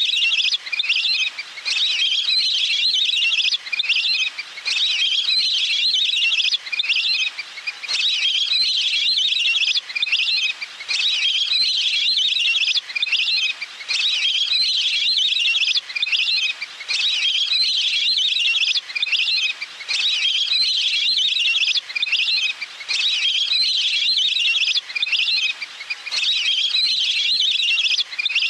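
Recorded wild duck calls played on a loop as a hunting lure: bouts of rapid, high-pitched chirping about a second and a half long, repeating every two seconds or so with short gaps.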